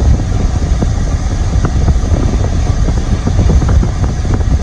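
Steady low rumble of car interior noise, picked up close on the microphone.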